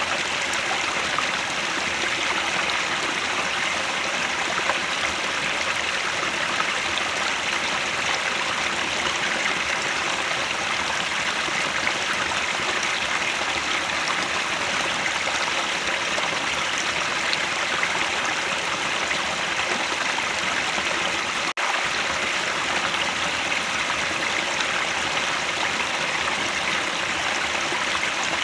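Headwater stream flowing steadily, a continuous rush of running water with a slight gurgle. The sound breaks off for an instant about three-quarters of the way through, then carries on unchanged.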